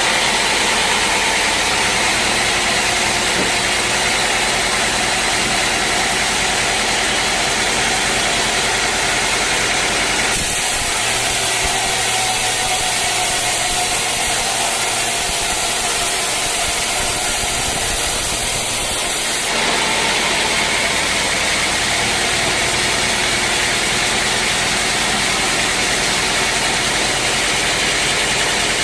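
Band sawmill's engine running steadily under a constant mechanical noise, which changes abruptly about ten and twenty seconds in.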